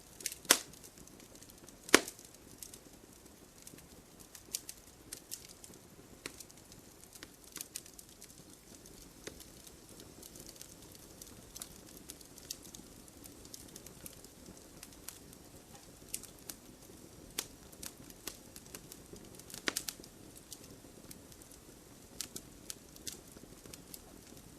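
Wood fire in a fireplace crackling: irregular sharp pops and snaps over a faint steady hiss of the flames, with the loudest pops about half a second and two seconds in.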